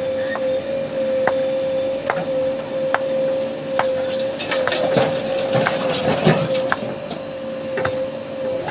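A JCB loader at work: a steady motor whine with irregular sharp clicks and knocks, thickening into a clatter about five to seven seconds in.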